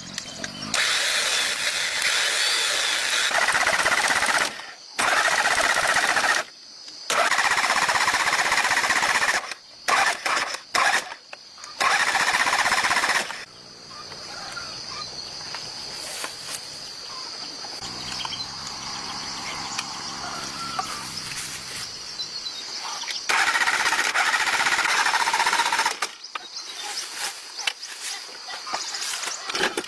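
A workshop power tool run in repeated bursts a second to several seconds long, each a harsh, hissing noise that starts and stops sharply, with quieter stretches between.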